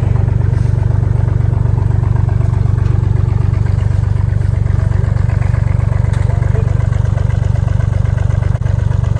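An engine idling loudly and steadily close by, with an even, rapid low pulse.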